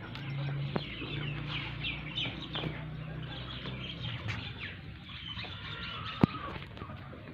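Birds chirping in many quick, short calls, with a single sharp click about six seconds in.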